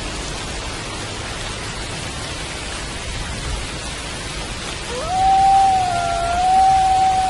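Steady rain falling, and about five seconds in a wolf howl that swoops up sharply and then holds one long, nearly level note.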